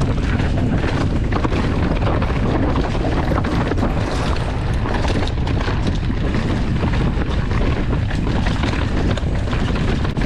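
Wind buffeting the microphone over the tyre noise and rattling of a mountain bike riding down a rough, twisty dirt trail, with frequent small knocks from bumps.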